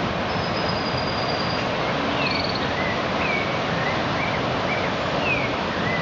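Steady rush of breaking surf, with birds chirping over it: a run of short curved chirps and a thin high whistle near the start.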